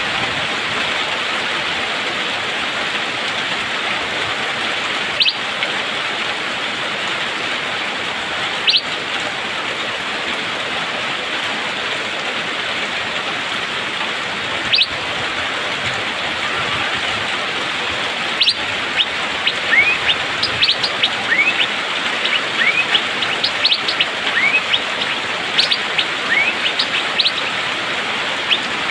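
Steady hiss of rain with the calls of an Asian fairy-bluebird (cucak biru): sharp single notes several seconds apart, then from about two-thirds of the way in a fast, tightly packed run of short rising whistles and chips.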